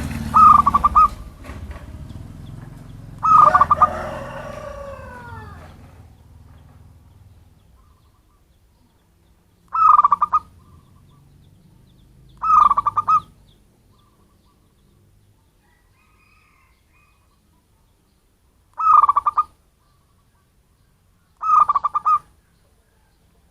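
Zebra dove (perkutut) cooing its rapid, stuttering trill, six short calls each under a second long, with pauses of a few seconds between them: a wild-type local perkutut call used as a lure for other doves. A low rumble is heard under the first calls and fades away by about eight seconds in.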